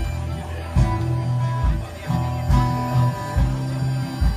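Live band music: strummed acoustic guitar over a bass line, with a low beat a little over once a second.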